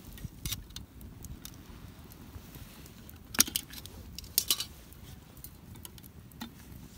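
Small metal camp items clinking and clicking as they are handled. There are a few light clicks near the start, one sharp clink about three and a half seconds in, and a quick cluster of clinks a second later, over a low steady rumble.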